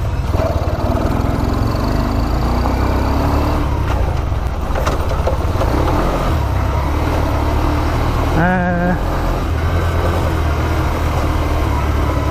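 125cc motorcycle engine running steadily while riding, with wind noise on the microphone.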